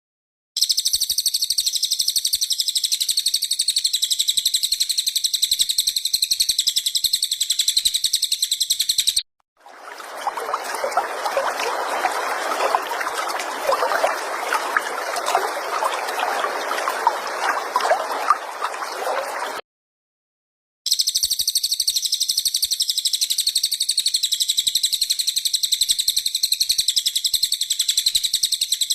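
Recorded cililin bird song played as tutor material: a very high, rapid trilling song in two long stretches, separated by about ten seconds of a lower, bubbling chatter, with brief silent gaps where the recording changes.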